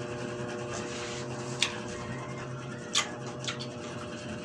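Eating fresh pineapple chunks close to the microphone: quiet chewing with two short, sharp smacks, one about a second and a half in and a louder one about three seconds in, over a steady electrical hum.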